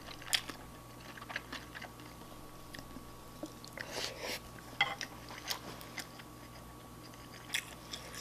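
Close-miked chewing of a mouthful of shrimp fried rice, with scattered soft clicks and wet crackles. There is a cluster of louder noises about four seconds in, as a wooden spoon scoops from the bowl and goes to the mouth.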